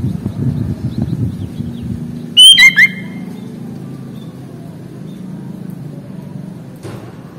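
Sooty-headed bulbul (kutilang) giving one short, very loud call of a few quick falling whistled notes about two and a half seconds in, over a low steady rumble. A sharp click comes near the end.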